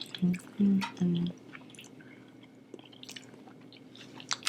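Close-up chewing of sushi: soft wet mouth sounds and small clicks, with a sharper click near the end. A few short murmured syllables come in the first second and a half.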